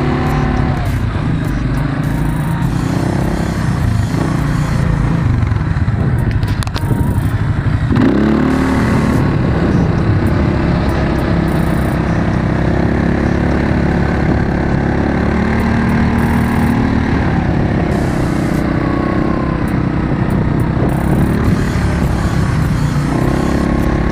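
Quad bike engine running while riding; about eight seconds in it revs up and then holds a steadier, higher note.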